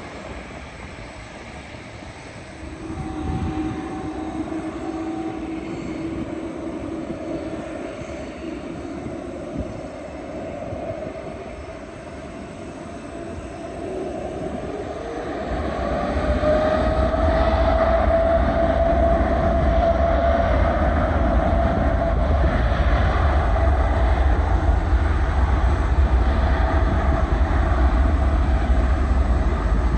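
Jet airliner engines on a landing approach: a steady whine, then a rising tone about halfway through as a deep low rumble builds and the sound grows much louder while the plane comes close.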